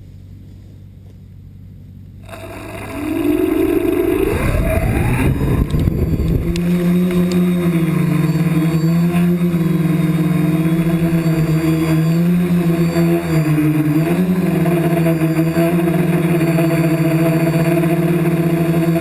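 Radio-controlled helicopter's motor and rotor spooling up: low background noise for about two seconds, then a whine rising in pitch over about three seconds, settling into a steady drone that dips and wavers slightly in pitch as it flies.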